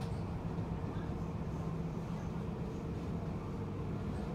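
Passenger train running at speed, heard from inside the carriage: a steady low rumble with a constant hum.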